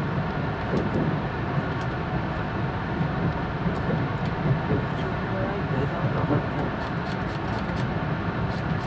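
Steady low rumble of an E4 series Max double-decker Shinkansen running on the line, heard inside the upper-deck passenger cabin, with faint scattered ticks.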